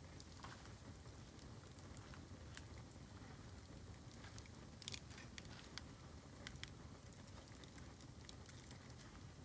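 Bamboo burning in a bonfire: faint, scattered crackles and small pops, a slightly louder pop about five seconds in, over a steady low rumble.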